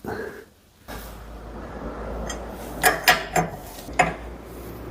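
Metal hydraulic fittings and tools handled at a workbench, giving four or five sharp metallic clicks and clinks, with a steady low hum underneath from about a second in.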